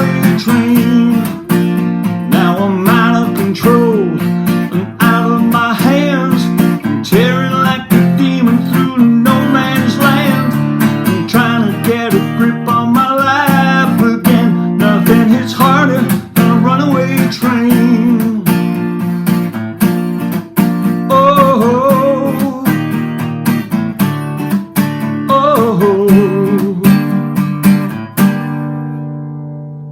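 Acoustic guitar playing an instrumental outro: rhythmic strummed chords with melodic lines over them, ending on a final chord that rings out and fades away near the end.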